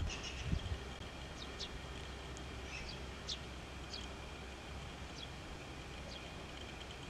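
Small birds chirping in short, scattered calls over a faint, steady low hum.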